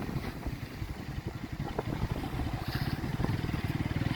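A small engine idling just after being started, with a rapid, even putter that grows slightly stronger near the end.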